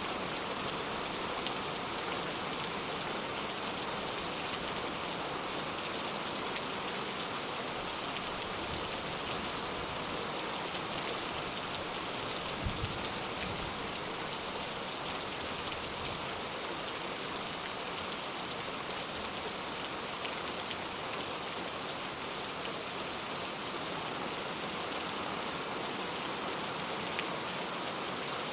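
Steady rain falling, an even patter without a break. A single brief low thump comes about halfway through.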